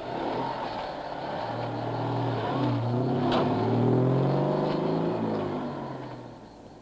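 A car engine accelerating away, rising in pitch, dropping briefly at a gear change, rising again, then fading as the car drives off. A sharp click about three seconds in.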